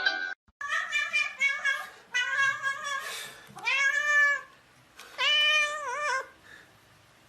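Domestic cat meowing repeatedly: a run of short meows, then two long drawn-out meows, the last one wavering in pitch.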